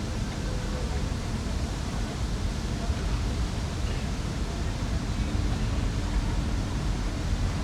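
Steady urban lakeside ambience at night: an even wash of noise over a low rumble of distant city traffic, with faint indistinct voices.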